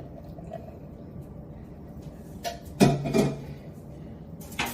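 Clunks and knocks of kitchen containers and utensils being handled: a loud short clatter about three seconds in and a sharp knock near the end.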